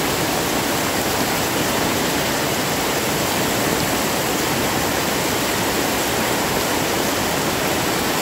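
Heavy rain pouring down in a steady, dense hiss with no single drops or thunder standing out.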